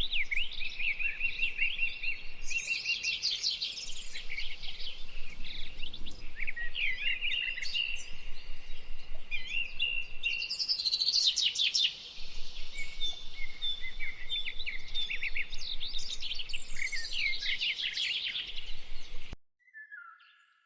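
Several birds singing and calling at once, with chirps, quick trills and runs of short repeated notes, over a faint steady hiss. The recording cuts off abruptly near the end.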